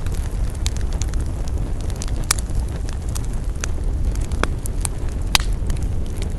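Campfire crackling: irregular sharp pops and snaps, roughly two a second, over a steady low rumble, with two louder pops about two and a third and five and a half seconds in.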